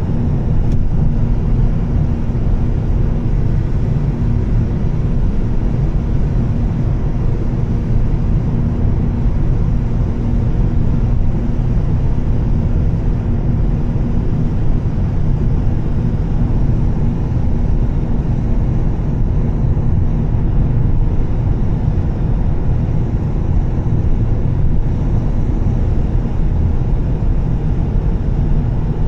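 Steady low rumble of a 2013 Volvo S60 T6, with its turbocharged straight-six and Heico aftermarket exhaust, cruising at a constant speed. Engine drone and road noise blend with a steady hum and do not change.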